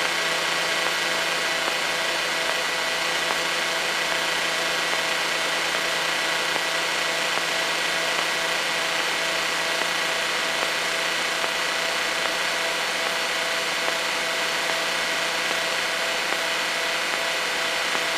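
Cessna 152's four-cylinder Lycoming engine and propeller running at a steady, unchanging speed, a constant drone with no change in pitch.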